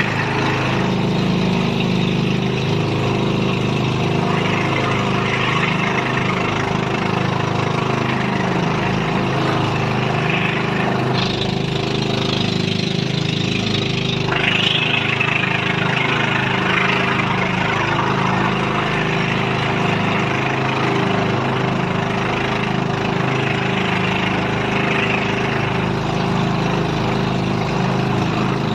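Engine of a motorized outrigger boat running steadily under way, with water rushing and splashing along the hull.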